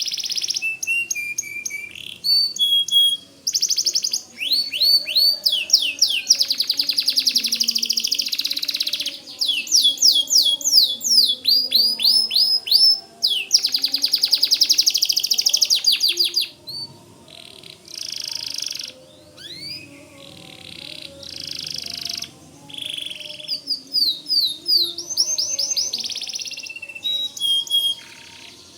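White canary singing in full song: long, fast trills of rapidly repeated notes and quick rising and falling whistles, phrase after phrase with short breaks, turning softer and more broken a little past halfway.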